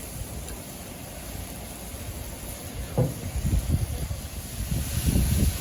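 Wind buffeting the microphone, with irregular low rumbling gusts starting about three seconds in, over a steady faint hiss.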